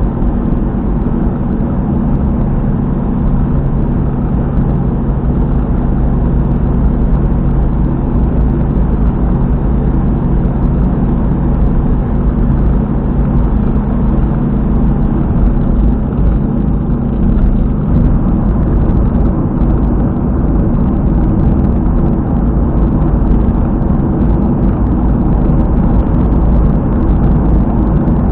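Car at highway speed with a loud, steady rumbling and knocking from around a rear wheel, a 'boko-boko-boko' noise that the owner later learned was, apparently, a failed rear hub bearing.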